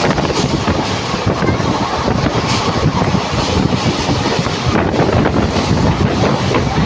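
A moving train running along the rails: a steady, loud rumble, with wind buffeting the microphone.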